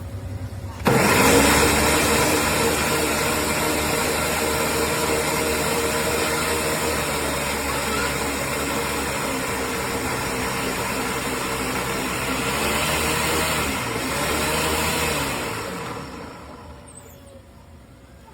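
Ninja countertop blender motor switching on abruptly, spinning up with a rising whine, running steadily for about fourteen seconds, then winding down and stopping.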